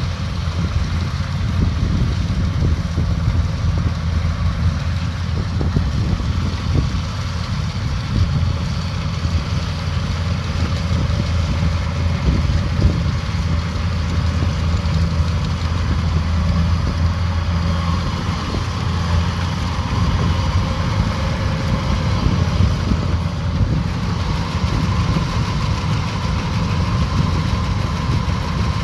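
Combine harvester's diesel engine running steadily, with a constant low hum.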